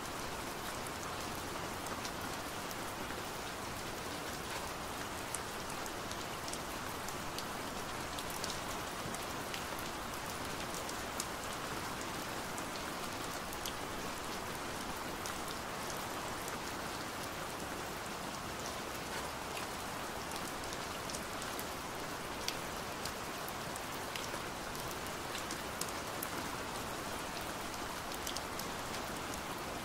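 Steady rain falling on a window, an even hiss with scattered sharp ticks of single drops.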